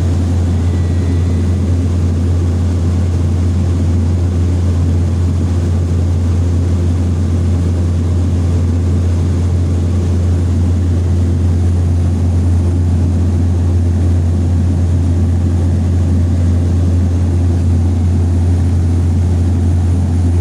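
Steady drone of a small propeller aircraft heard from inside the cabin in flight, with a strong low hum that holds constant throughout.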